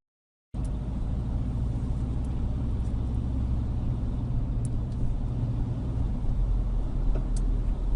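A motor vehicle running steadily: a low engine and road rumble that starts about half a second in, with a few faint light ticks over it.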